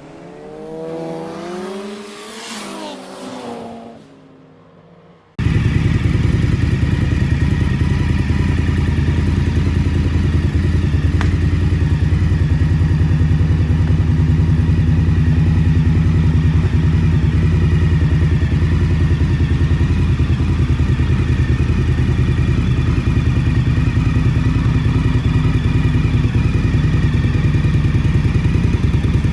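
A short gliding, swooping intro sound, then about five seconds in the 2021 Indian Scout Bobber's liquid-cooled V-twin engine cuts in loudly and idles steadily.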